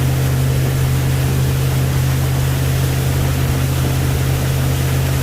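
Water taxi's engine running steadily at speed: a constant low drone with the rush of wind and water over it.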